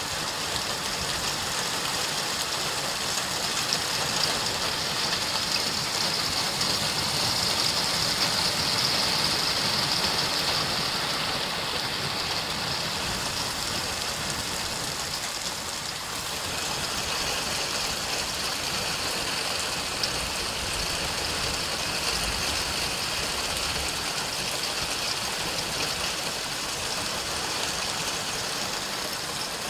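Heavy thunderstorm rain pouring down onto the road, a dense steady hiss that grows louder a few seconds in and eases a little about halfway through.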